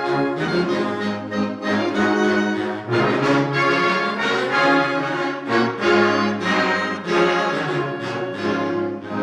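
Community wind band playing a full, loud passage with brass to the fore: sustained chords that change about every second, with several accented attacks.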